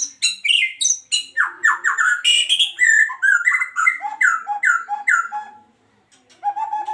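Male white-rumped shama (Medan murai batu) singing vigorously: a quick run of varied high notes, then a string of repeated falling whistles, about three a second, with a brief pause near the end before the song starts again.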